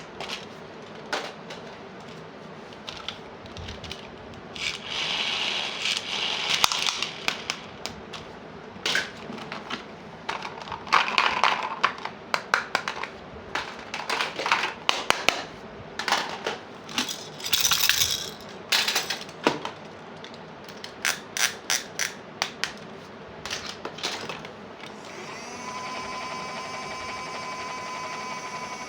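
Small plastic toy pieces and their packaging being handled: many sharp clicks and taps, with several short bursts of plastic rustling. About 25 seconds in, a steady hum with several held tones sets in.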